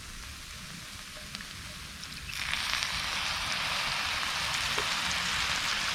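Grape juice hitting a hot cast-iron pan of roasted fruit: a faint hiss for about two seconds, then the pan breaks into a steady sizzle that stays up as the juice deglazes it.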